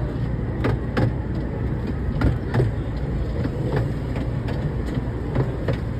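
Theme-park tour train running, heard from on board: a steady low rumble with scattered clicks and rattles.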